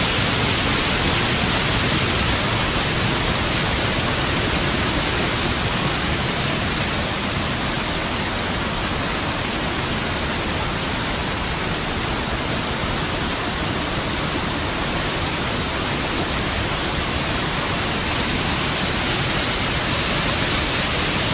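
Steady, even rush of a waterfall, unbroken throughout.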